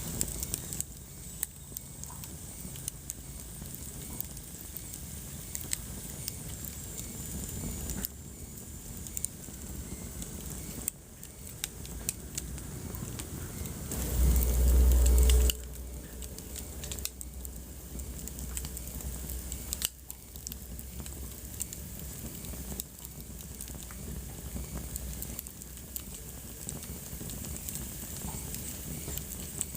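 Wood fire in a fireplace crackling, with frequent sharp pops over a steady hiss. About halfway through, a loud low rumble lasts about a second and a half.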